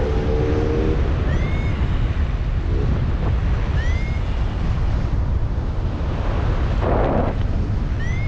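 Strong wind buffeting the microphone during a paragliding flight, a steady low rumble throughout. A faint short rising chirp repeats about every two seconds, and a brief louder rush comes near the end.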